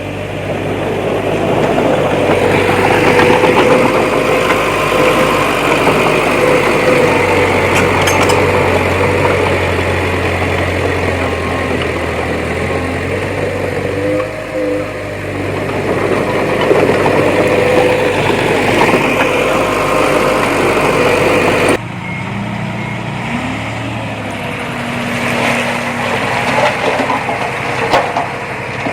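Heavy earthmoving machine's diesel engine working, its pitch rising and falling with the load. About two thirds of the way through the sound cuts abruptly to a quieter engine, with scattered knocks and clanks near the end.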